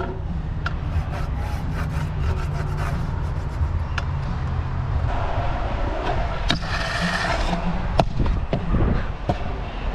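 Scooter wheels rolling on concrete with a steady low rumble and scattered clicks and knocks, and a longer scraping rush about five seconds in that stops about two and a half seconds later.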